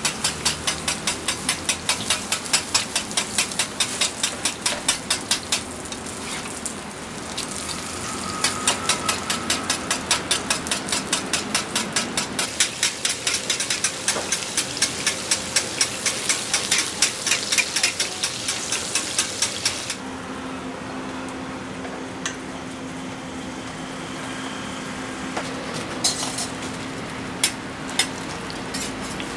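Pan-fried buns sizzling in oil on a large flat griddle, under a quick, even clacking of about three to four strikes a second that stops abruptly about two-thirds through. After that the sizzling goes on with a low hum and a few single knocks near the end.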